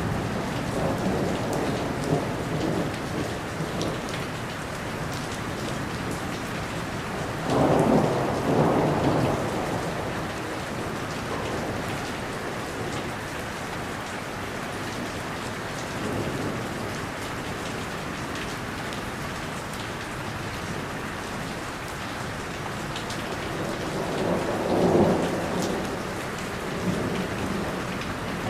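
Steady heavy rain falling, with rolls of thunder rising out of it several times: a loud one about a quarter of the way in, a weaker one near the middle and another loud one near the end.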